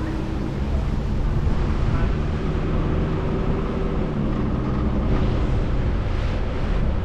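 A vehicle driving along, heard from inside the cab: steady road and engine noise with tyre hiss, swelling slightly after about five seconds.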